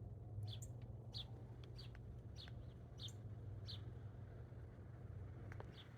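A small wild bird giving short, high chirps, about one every half second or so, with a pause of about two seconds in the second half. A low steady hum runs underneath.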